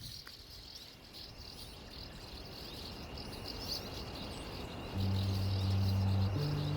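Small birds chirping continually, with a steady thin high tone beneath them. About five seconds in, low sustained background music comes in and becomes the loudest sound.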